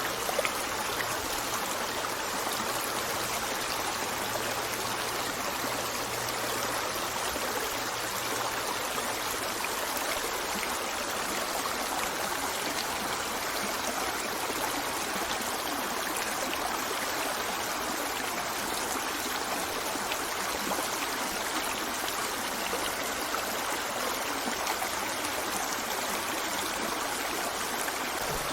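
Steady rush of running water from a stream, even and continuous throughout.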